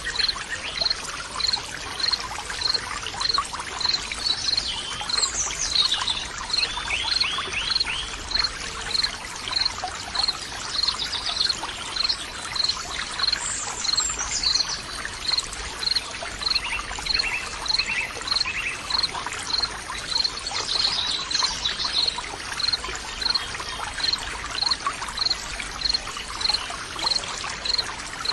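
Running water trickling and pouring, with birds singing in short sweeping phrases and a high chirp repeating evenly about twice a second.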